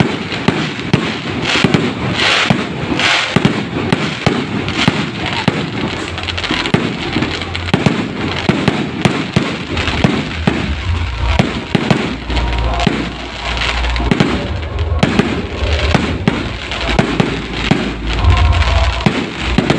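Aerial fireworks bursting in quick succession: a dense, continuous string of sharp bangs and crackles, with a heavier low rumble beneath in the second half.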